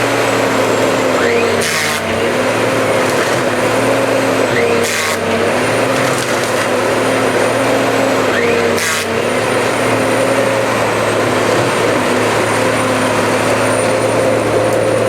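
Diesel engine of a cut-to-length timber harvester running steadily under hydraulic load, its pitch dipping slightly now and then. Three short splintering cracks of wood come from the harvester head working a stem, about 2, 5 and 9 seconds in.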